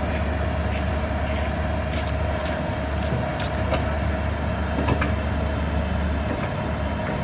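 Backhoe's diesel engine running steadily: a low drone with a steady higher tone over it, and scattered light clicks and knocks.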